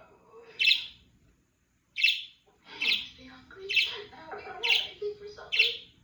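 Pet parrots calling: six short, sharp calls spaced about a second apart, with softer, lower chatter underneath in the second half.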